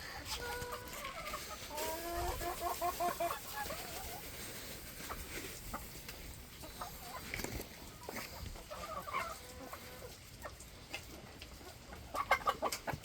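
A flock of chickens clucking in repeated short calls, busiest about two to three seconds in, again around nine seconds and near the end, as they feed on freshly milled grain feed.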